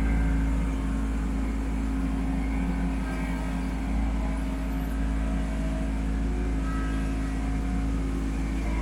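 Kubota B2650 compact tractor's three-cylinder diesel engine running at a steady speed while working a BH77 backhoe.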